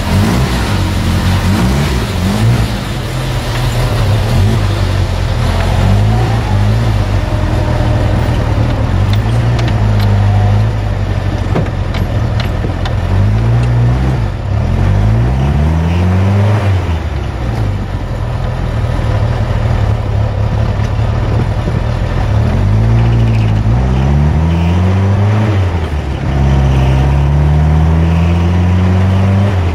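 A 1972 Fiat 850 Sport Spider's small rear-mounted four-cylinder engine running and pulling the car, heard from the open cockpit. The engine pitch climbs as it accelerates, then drops back at each gear change, several times over.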